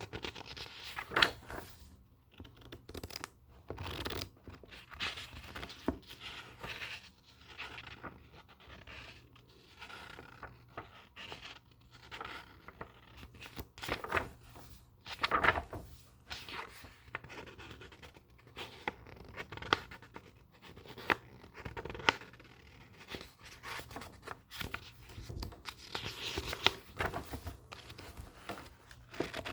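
Book pages being turned and handled: irregular papery rustles, scrapes and soft swishes, with a few sharper taps and flicks.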